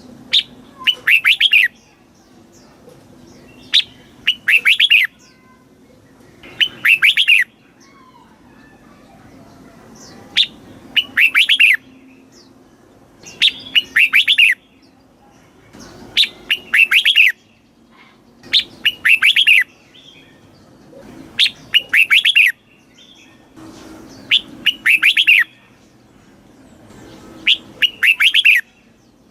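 Red-whiskered bulbul singing: a short, loud phrase of several quick notes, repeated about every two to three seconds.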